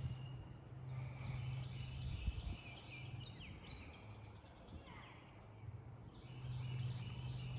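Birds chirping and singing in two bursts of quick, high notes, over a low steady hum that fades out mid-way and returns.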